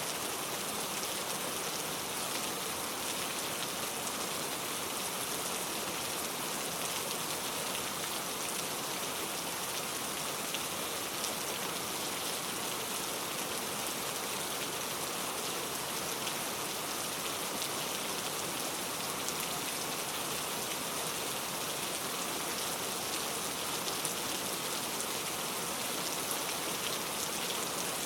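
Steady heavy rain falling, an even hiss of water with scattered small drop ticks.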